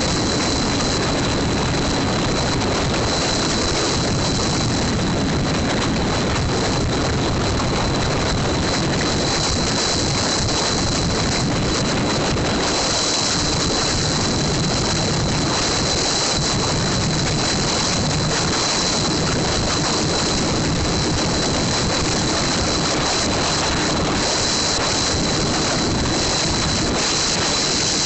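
Steady rushing noise with a motorcycle engine running underneath, holding an even level throughout.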